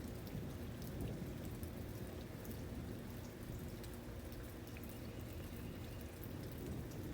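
Steady rain, with scattered sharp drop ticks over a low rumble underneath.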